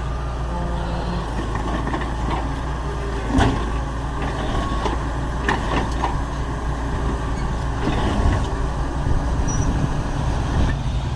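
Heavy diesel construction machinery running steadily, with several short metallic clanks, the loudest about three and a half seconds in.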